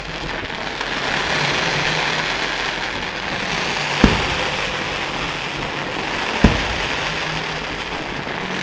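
Fireworks display: a steady dense crackle of bursting effects, broken by two sharp bangs about four seconds and six and a half seconds in.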